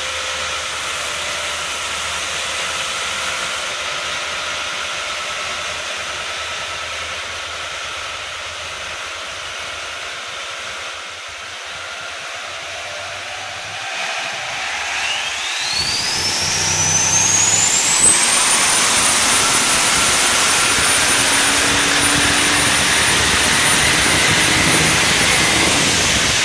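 Turbocharged LS1 V8 in a Holden HJ Kingswood running on a chassis dyno. About fifteen seconds in, the engine gets louder and a turbo whine climbs steeply in pitch over a few seconds, then holds high and steady as the turbo spools up.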